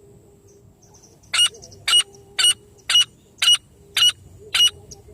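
A francolin calling: a run of seven short, harsh notes at about two a second, starting a little over a second in. A faint steady low hum lies underneath.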